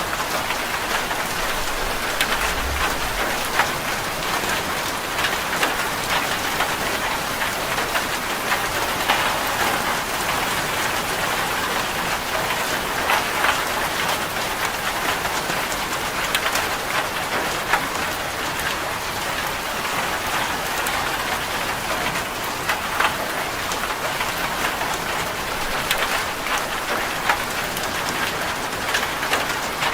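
Steady rain falling on a corrugated zinc roof: an even patter with many sharp ticks from single drops.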